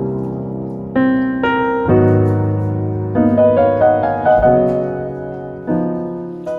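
Background piano music: chords struck about once a second and left to ring.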